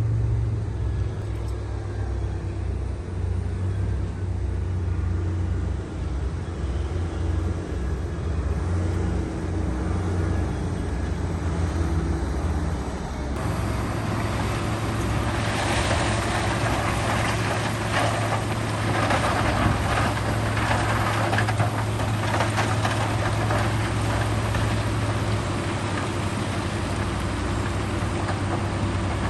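Heavy earthmoving machine's diesel engine running steadily with a deep hum. About halfway through the sound changes abruptly, and a rough scraping and clattering joins the engine.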